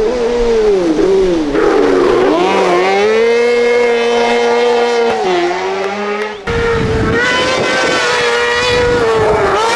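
A 600 cc motorcycle-derived kartcross engine revving at high rpm, its pitch dipping and climbing several times with throttle and gear changes, then held high and steady. About six and a half seconds in, the sound changes abruptly to another steady high-rpm engine note with a low rumble beneath it.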